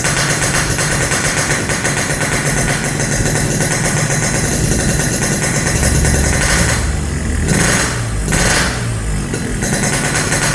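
Yamaha RX-King's two-stroke single-cylinder engine running through an aftermarket exhaust, loud and steady, its note changing twice between about seven and ten seconds in.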